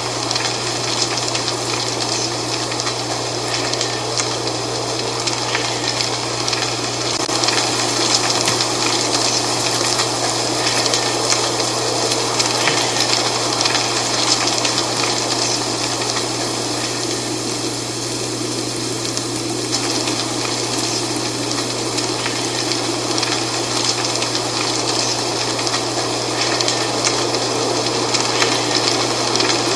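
Dry fallen autumn leaves rustling in steady wind: a continuous dense rustle made of many small crackles, swelling a little and easing again. A steady low hum runs underneath.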